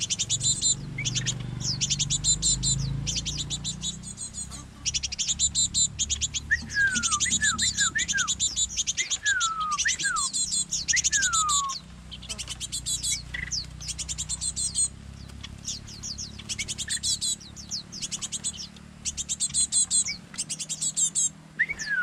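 Fledgling tits begging for food: bursts of rapid, high-pitched chattering calls about a second long, repeated again and again as they wait to be hand-fed. A few falling whistles sound about a third of the way in.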